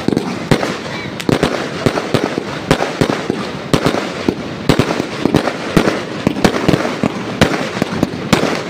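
Fireworks going off in a rapid, irregular string of sharp bangs, several each second, with a continuous noisy crackle between them.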